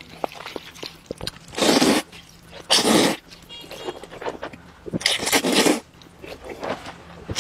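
Close-up eating sounds: three loud slurps, a few seconds apart, with small chewing clicks between them.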